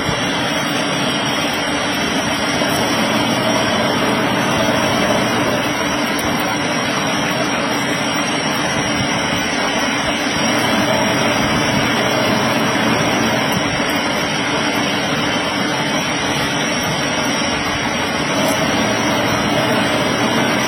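Large old metal lathe running, a steady loud machine noise that holds even without a break.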